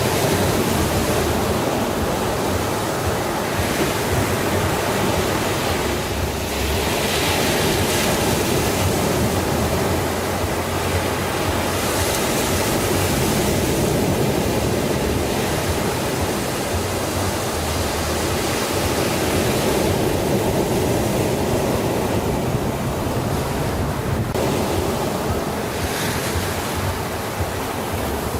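Sea waves washing in, the hiss swelling and fading every several seconds over a steady low rumble.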